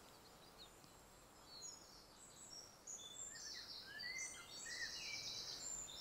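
Faint woodland birdsong: small birds chirping and twittering in short, high notes, sparse at first and growing busier from about three seconds in.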